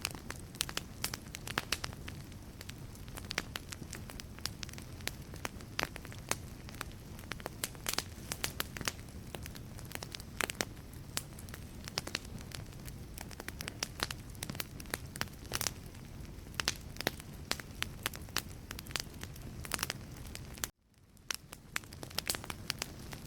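Wood fire burning in a fireplace, crackling and popping with many irregular sharp snaps over a steady low rumble of the flames. Near the end the sound cuts out abruptly, then fades back in about a second later.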